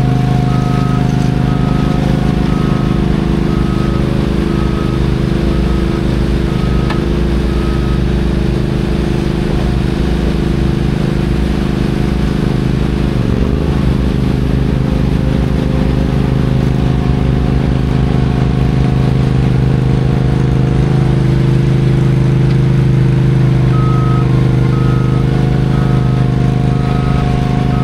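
Heavy diesel engine running steadily, with a reversing alarm beeping at an even pace for the first eight seconds or so and again near the end: a heavy vehicle backing up.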